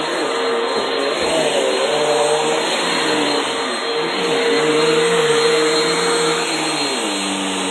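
Vacuum cleaner running continuously, its motor hum wavering up and down in pitch over a steady rushing of air.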